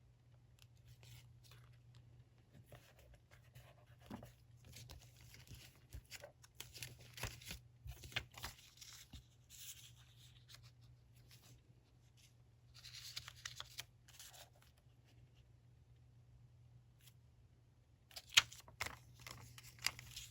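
Paper being handled and torn at a desk: crinkling, tearing and small sharp clicks come in several short bursts. A steady low hum runs underneath.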